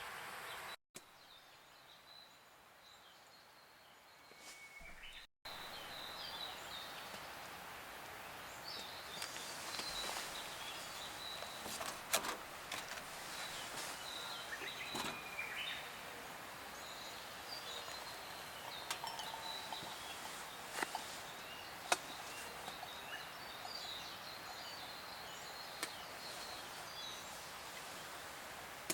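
Outdoor ambience: birds chirping now and then over a steady hiss, with a few sharp clicks.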